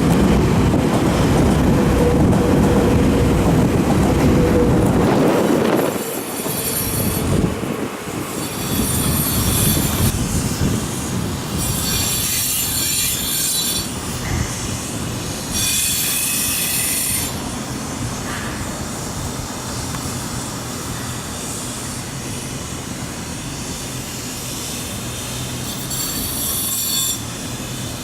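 A Nankai electric train runs heavily through the station for the first six seconds or so. After that, its wheels squeal high against the rails in repeated bursts, with a quieter running rumble underneath.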